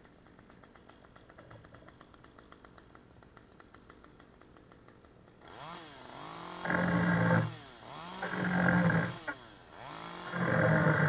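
Stihl MS 193T two-stroke top-handle chainsaw running quietly at first. From about five and a half seconds in it is revved up in three loud bursts, its pitch rising into each one.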